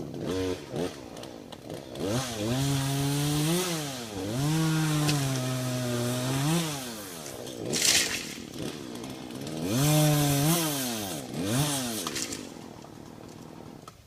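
Gas chainsaw starting up right at the start, then running with its pitch rising and falling through several revs, and shutting off near the end.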